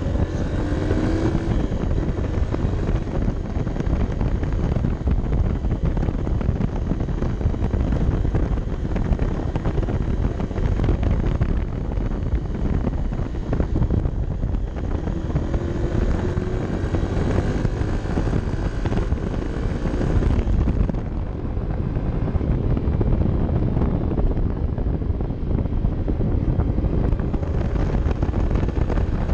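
Honda CB125F's single-cylinder four-stroke engine running as the motorcycle is ridden, mixed with heavy wind rush over the microphone. The engine pitch rises about a second in and again around fifteen seconds in.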